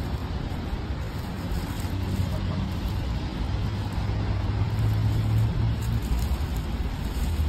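A motor vehicle's engine running close by: a steady low hum that swells in the middle, over general street traffic noise.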